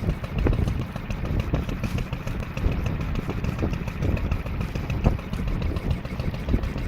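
1936 Olympia marine engine running steadily.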